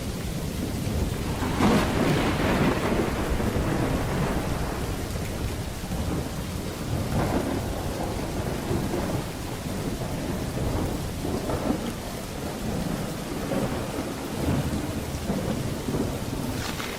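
Thunderstorm: steady heavy rain with rolling thunder. A sharp crack of thunder about a second and a half in rumbles on for several seconds, softer rolls follow, and another crack comes at the very end.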